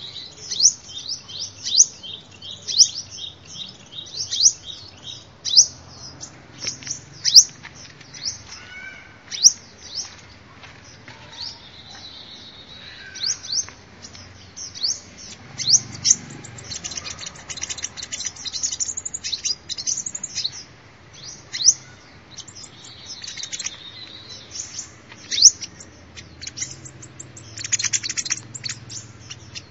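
Sunbird calling: a rapid run of short, high chirps that fall in pitch, with quick trills in between.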